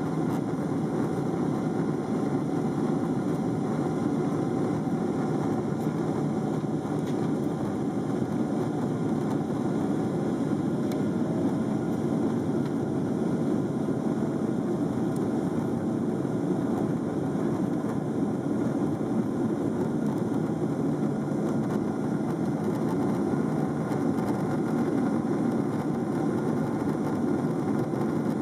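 Jet airliner cabin noise in flight: a steady rumble of engines and airflow that does not change, with a faint steady tone in the middle stretch.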